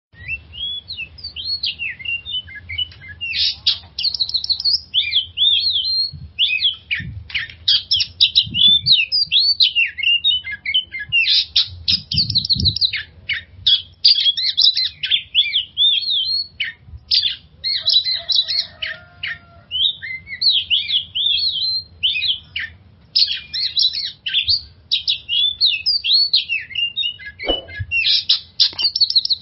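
Oriental magpie-robin (kacer) singing continuously: a fast, varied stream of whistled notes, slides and chattering phrases with only brief gaps.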